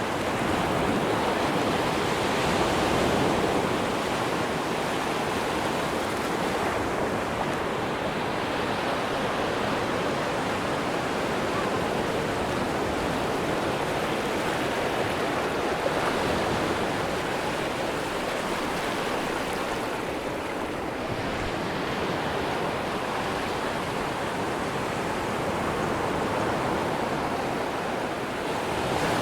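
Atlantic Ocean surf on a sandy beach: a steady wash of breaking waves that swells and eases slowly.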